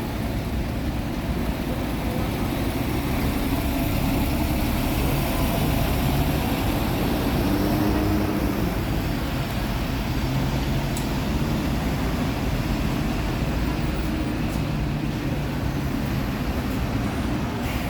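Isuzu Erga city bus's four-cylinder turbo diesel running steadily, its pitch rising slightly and easing back about halfway through.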